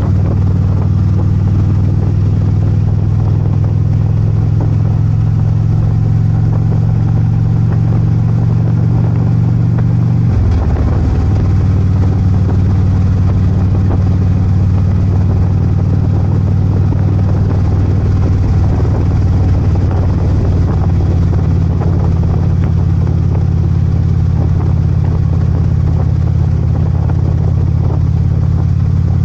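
Harley-Davidson Ultra Limited's V-twin engine running steadily under way. About ten seconds in, the engine note shifts abruptly, as at a gear change, then holds steady again.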